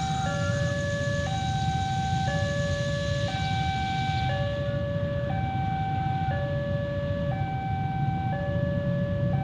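Two-tone electronic warning alarm alternating steadily between a higher and a lower note, changing about every 0.8 s, over a steady low rumble.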